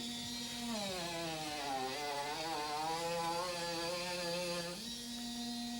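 Electric power tool motor running steadily, its pitch sagging and recovering several times.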